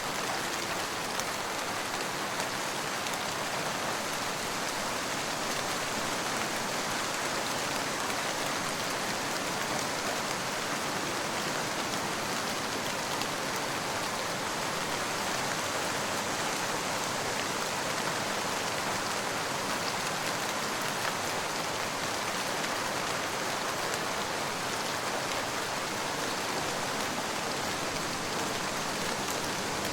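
Steady rain falling: an even hiss of rainfall with fine drop patter and no thunder.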